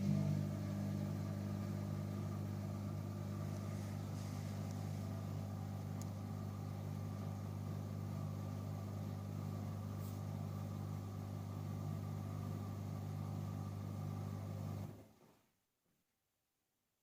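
AEG Öko-Lavamat 88840 washing machine's pump motor humming steadily, then switching off near the end.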